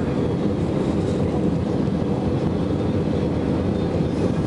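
Steady, low cabin noise of an Airbus A320 in flight on approach: engine and airflow noise heard from inside the passenger cabin.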